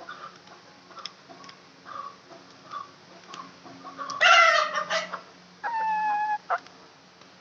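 Aseel chickens clucking softly at intervals, with one loud harsh squawk about four seconds in, followed shortly by a steady held call lasting about a second.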